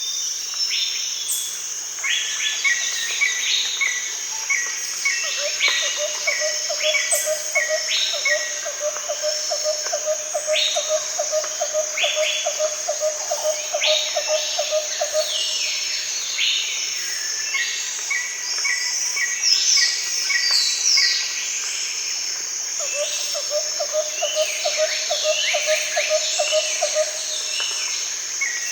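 Daytime rainforest chorus: a steady high-pitched insect drone under many birds calling, with short downward-sweeping notes and quick runs of repeated chirps. A low, rapid pulsing trill comes in about five seconds in for ten seconds, and again for a few seconds near the end.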